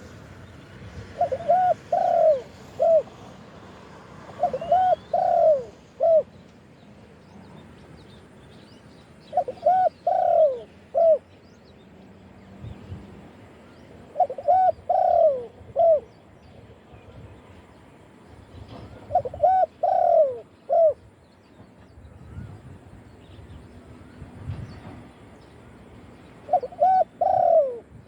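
Spotted dove cooing: short phrases of three or four coos, repeated about every five seconds, six times. Faint chirps of small birds in between.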